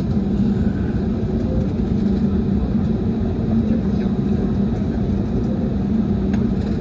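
Steady engine drone heard from inside a vehicle, with a constant low hum and no change in level.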